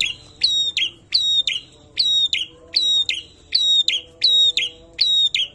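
Prinia (perenjak) singing loudly: a fast run of sharp, whistled two-note phrases repeated about every 0.7 seconds, each note slurring downward.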